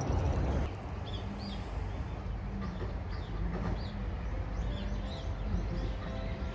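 Small birds chirping, many short calls scattered over a steady low background hum.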